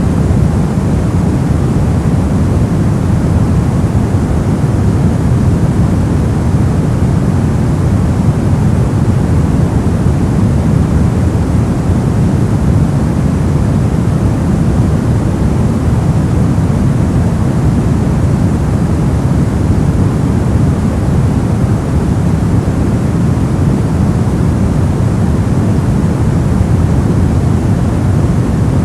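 Steady, unbroken noise track of the kind sold as white noise, deep rather than hissy, with no changes or events.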